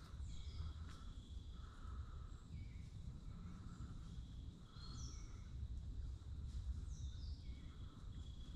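Forest ambience: short bird calls repeat every second or so over a steady low rumble.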